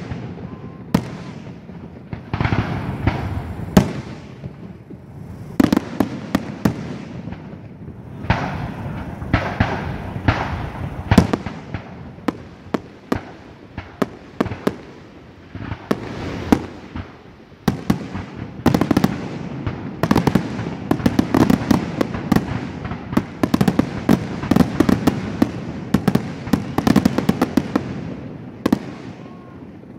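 Aerial fireworks bursting overhead: sharp bangs and crackles with rumbling booms between them, coming thick and fast through the second half.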